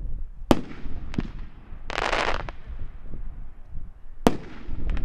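A 500-gram consumer fireworks cake firing. Sharp reports come about half a second in, just after a second and near the end, with a dense burst of crackle around two seconds in.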